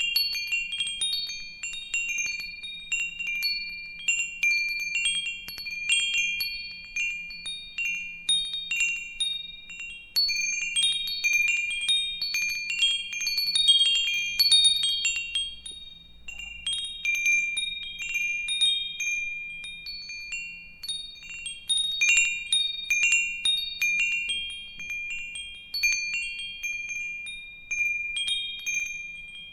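Wind chimes ringing at an irregular pace, several high, clear tones struck in overlapping clusters, each ringing on and fading away.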